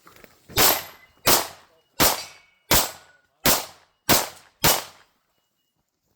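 Seven gunshots fired at a steady pace, about two-thirds of a second apart, each with a short ringing tail.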